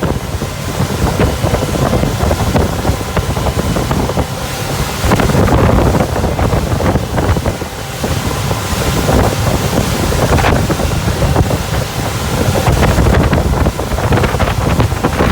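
Wind buffeting the microphone over the water rush and steady engine drone of a 2012 Hurricane 2400 deck boat running on the water, with the wind noise surging in gusts.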